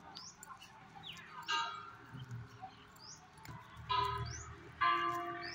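Birds calling: several short calls, each under a second and clustered closer together near the end, with faint brief high chirps in between.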